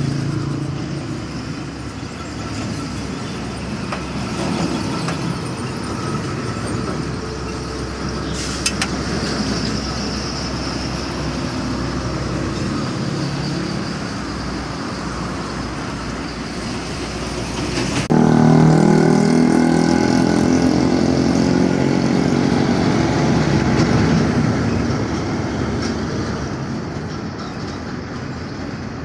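Heavy trucks driving past with diesel engines running over steady road noise. About two-thirds of the way in, a closer, louder truck engine comes in suddenly with a deep drone and then fades slowly.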